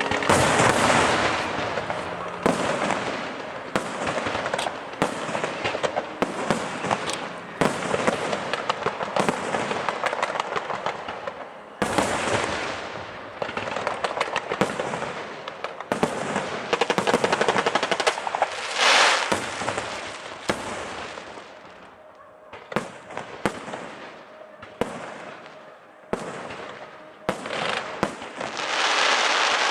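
Aerial fireworks display: a rapid series of loud shell bursts and bangs over continuous crackling, with denser, louder volleys several times.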